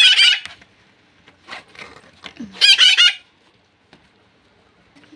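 Pet rose-ringed parakeets screeching: two loud, harsh calls, one right at the start and one about two and a half seconds in, each about half a second long.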